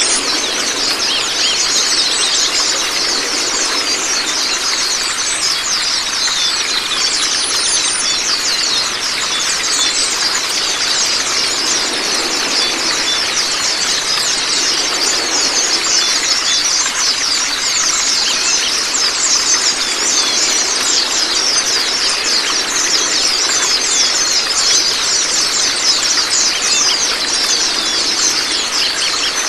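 Steady rush of flowing water with dense, high-pitched twittering of small songbirds laid over it, a bird-training water-therapy sound track.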